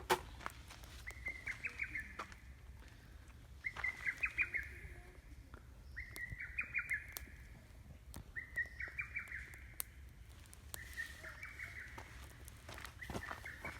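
A songbird repeating the same short phrase of quick notes about every two and a half seconds, six times, over scattered pops and crackles from a wood campfire.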